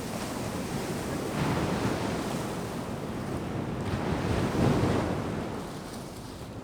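Ocean surf breaking on a sandy beach, with two swells: a smaller one about a second and a half in and a louder one about four to five seconds in, then easing off. Wind noise on the microphone runs under it.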